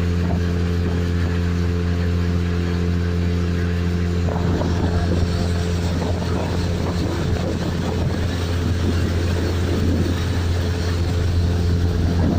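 Boat's outboard motor running steadily at speed. About four seconds in, rushing water and wind noise grow loud over the engine note.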